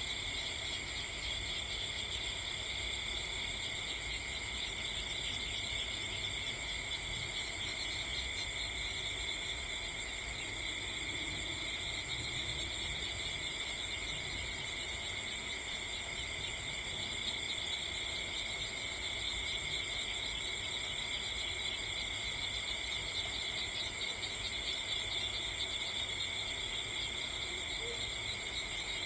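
Steady chorus of night insects chirring, several high pitches held without a break.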